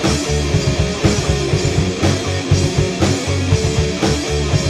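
Rock band playing an instrumental passage between vocal lines: distorted electric guitar, bass and a drum kit.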